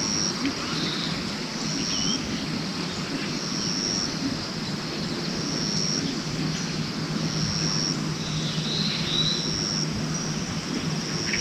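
Outdoor ambience: a steady noise bed with an insect repeating a short, high, even note about every two seconds, a few faint chirps, and a low steady hum in the second half.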